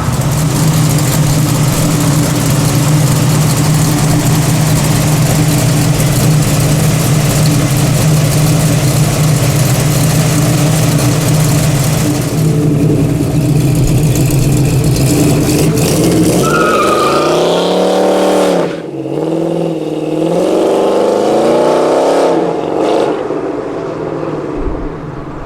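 The 1972 Chevrolet C10's small-block Chevy V8 runs at a steady pitch under heavy road and wind noise. About two-thirds of the way through, the revs fall and climb again several times, with a brief high chirp, and the sound dies down near the end.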